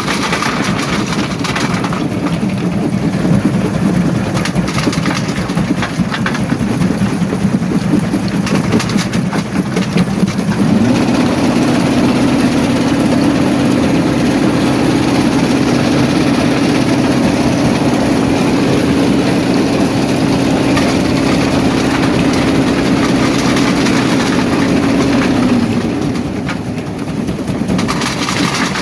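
Rock crushing plant running: a heavy diesel engine note under a steady rough clatter of rock being crushed. About eleven seconds in the engine note steps up higher and holds, then falls back near the end.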